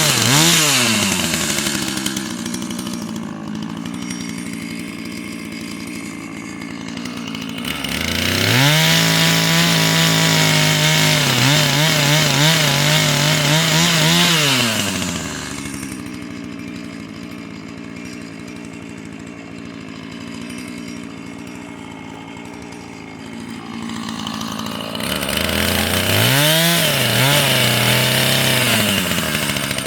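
Husqvarna chainsaw idling between cuts and revved to full throttle twice, for about six seconds and then about four seconds, as it cuts wood into firewood lengths, dropping back to idle after each cut.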